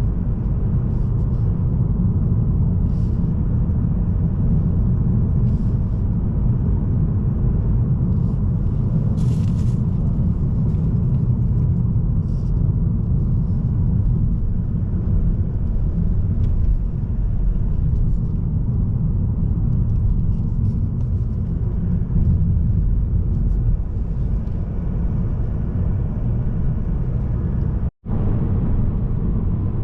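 Steady low road and engine rumble of a Mazda3 sedan driving along, heard from inside the cabin, with a brief cut-out near the end.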